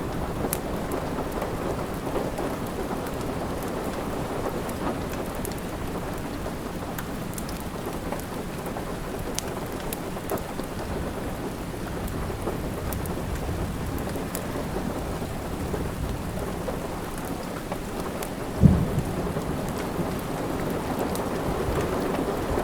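Steady rain with a low thunder rumble underneath and scattered sharp crackles from a wood fire. A sudden loud, low thud comes about three-quarters of the way through.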